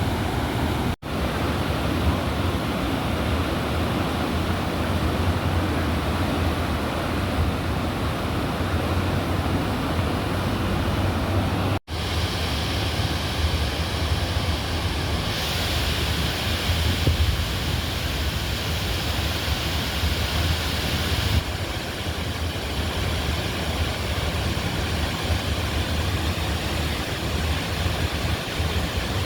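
Floodwater of a swollen, overflowing river rushing, heard as a steady, loud wash of noise. A brighter hiss joins for several seconds in the middle. The sound drops out abruptly twice, about a second in and again near twelve seconds.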